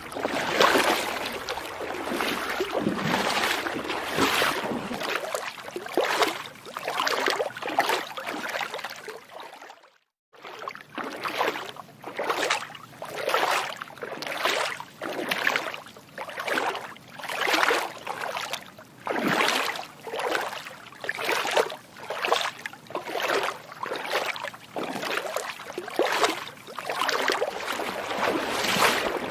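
Footsteps wading through shallow water, splashing in a steady rhythm of about one step a second, with a brief cut to silence about ten seconds in.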